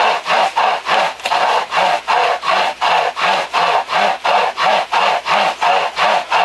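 Pocket chainsaw, a toothed hand chain pulled back and forth by its two handles, rasping through a piece of firewood in steady strokes about two and a half a second, each stroke's pitch rising and falling with the pull.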